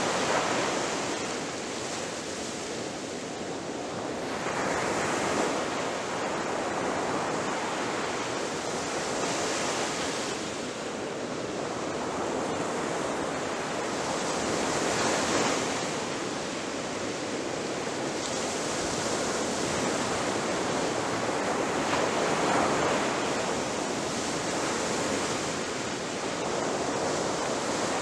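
Ocean waves breaking on a beach: a continuous rushing surf that swells and falls back every few seconds as each wave comes in.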